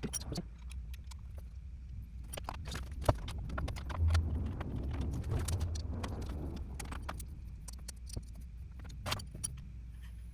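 Irregular clicks and light metallic clinks of hand tools and fasteners being handled, with a low rumble in the middle, as a motorcycle's plastic belly pan is unfastened and taken off.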